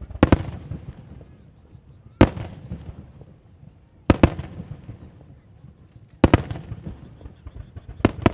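Aerial firework shells bursting, a sharp bang about every two seconds, each trailing off over a second or so; the first and last bursts come as quick double bangs.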